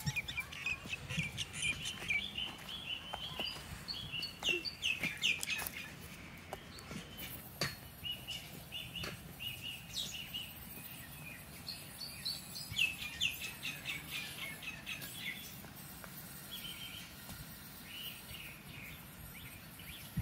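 Small birds chirping in quick runs of short, high chirps: one bout over the first few seconds and another in the middle, with a few faint clicks.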